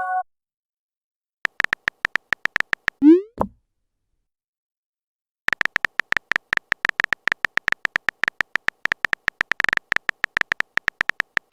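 Chat-app sound effects: rapid runs of typing clicks, each a short bright tick. About three seconds in comes a rising swoop ending in a thud, like a message being sent. A long unbroken run of typing clicks follows from about halfway.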